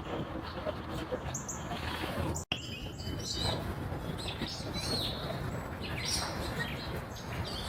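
Wild birds chirping and calling in short notes over steady outdoor background noise. The sound cuts out for an instant about two and a half seconds in.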